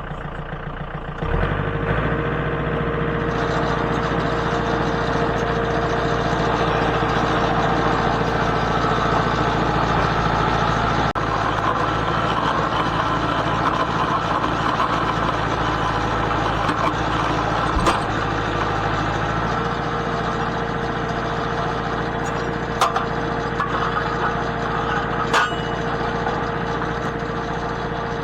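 Farm tractor engine running steadily, throttled up about a second in as it drags a log. A few sharp knocks come over it in the second half.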